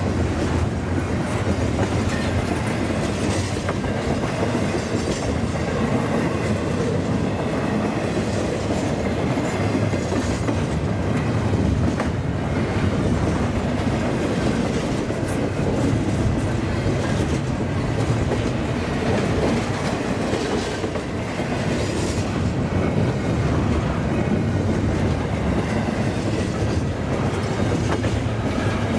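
Double-stack intermodal container well cars of a CN freight train rolling past at speed: a steady rumble of steel wheels on rail with repeated clickety-clack of wheels crossing rail joints.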